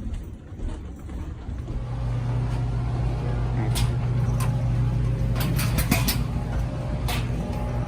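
A steady low mechanical hum sets in about a second and a half in and holds, with scattered sharp clicks and knocks over it.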